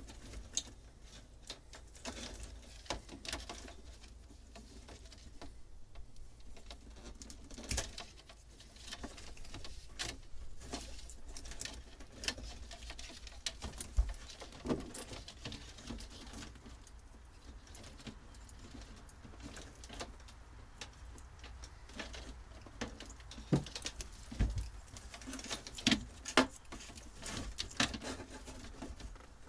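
Hand work on a boat's old wiring: irregular rustling, scraping and sharp clicks and knocks as wires and fittings are pulled loose and handled, with a faint steady low hum underneath.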